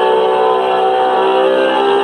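Recorded engine of a Porsche 911 GT3 RS, its naturally aspirated 4.0-litre flat-six running at steady revs. The pitch eases down slightly about half a second in and again near the end.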